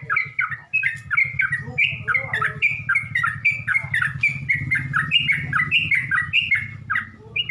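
Yellow-vented bulbul song, a lure call: a fast, unbroken string of bubbly chattering notes, about three a second, over a steady low hum.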